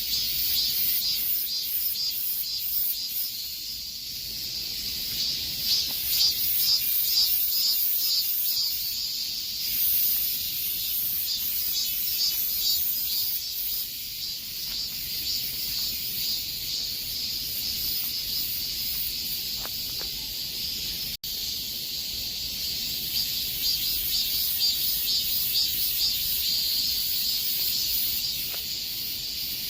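A chorus of cicadas singing: a dense, high buzzing that pulses rapidly and swells and eases without pause. The sound cuts out for a split second once, about two-thirds of the way through.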